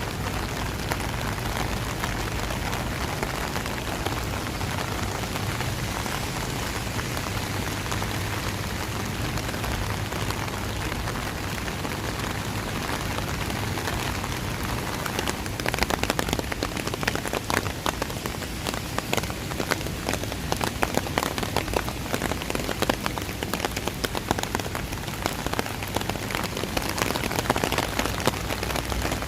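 Rain falling steadily. From about halfway, close drops hit nearby as sharp, irregular taps over the hiss.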